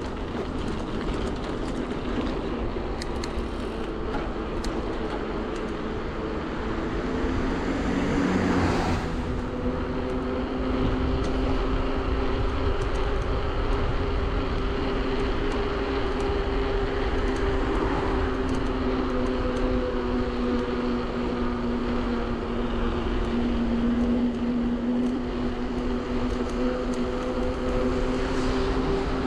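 Bafang BBSHD mid-drive e-bike motor whining under power, its pitch rising about eight seconds in and then holding steady, over a constant rush of wind and road noise.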